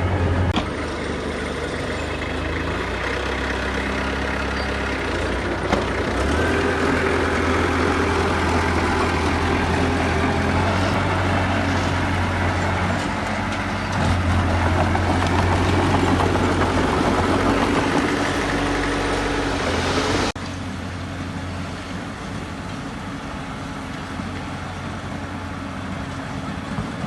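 Heavy diesel engines of earthmoving machinery running, the engine note shifting and growing louder about 14 seconds in. About 20 seconds in the sound drops abruptly to a quieter, steadier engine drone.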